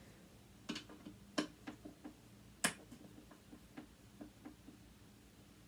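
Small, irregular metal clicks and taps of a tool and loose parts while a sewing machine motor is being taken apart, about a dozen, the sharpest about two and a half seconds in.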